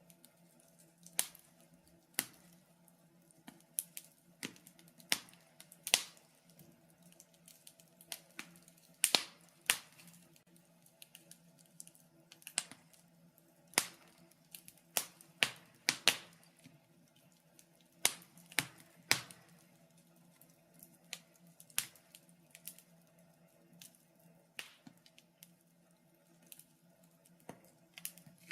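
Wood fire crackling in a fireplace: sharp, irregular pops and snaps, about one or two a second, over a faint steady hum.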